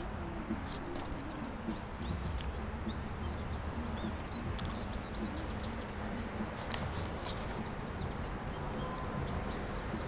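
Birds chirping now and then over a steady outdoor background noise.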